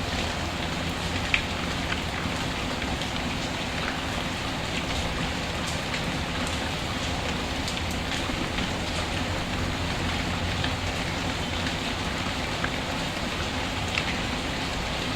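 Steady rain falling, an even hiss of drops, with a few sharp clicks, the loudest about a second in and another near the end.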